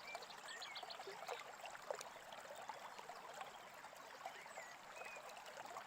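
Faint babbling brook, a steady trickle of running water, with brief scattered bird chirps.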